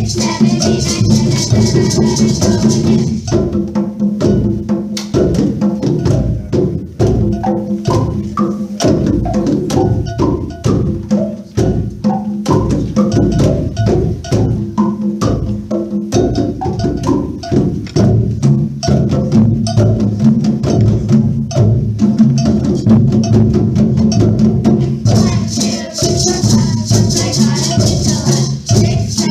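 Children's percussion ensemble playing a tune: a run of struck, pitched notes over a steady rhythm of sharp knocks. A high rattling drops out about three seconds in and comes back near the end.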